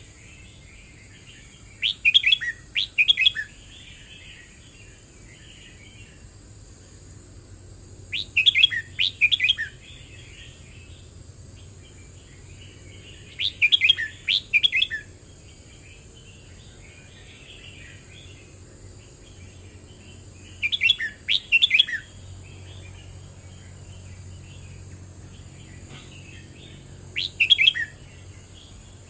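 Red-whiskered bulbul singing: five short, loud song phrases of a second or so each, spaced about six seconds apart, with softer twittering between them.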